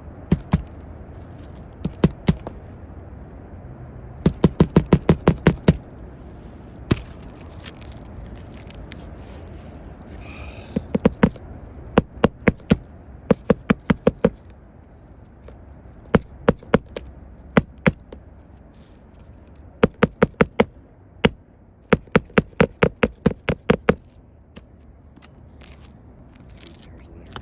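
Hammer driving roofing nails into asphalt shingles: quick runs of several sharp blows, one run per nail, with short pauses between them.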